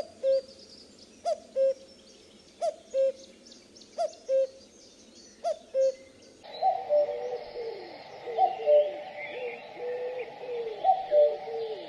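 Common cuckoo calling its two-note "cuck-oo", the second note lower, five times at about one call every second and a half. About six and a half seconds in, the sound changes abruptly to a busier background with overlapping cuckoo calls at the same pitch and fainter chirps of smaller birds higher up.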